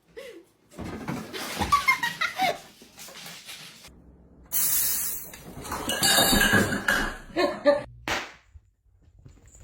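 People laughing, with a loud rushing noise through the middle.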